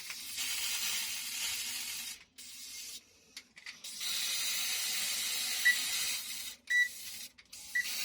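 Aerosol can of Rust-Oleum spray paint hissing in two bursts of about two seconds each, with a pause between, then a short burst near the end.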